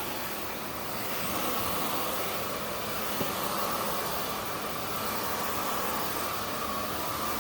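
Zoker A10 Pro cordless stick vacuum running steadily on its most powerful speed: an even rush of air with a steady motor whine.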